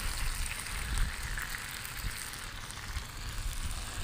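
Halibut sizzling and crackling steadily in a cast-iron pan on a propane campfire's cook grate, over a low rumble.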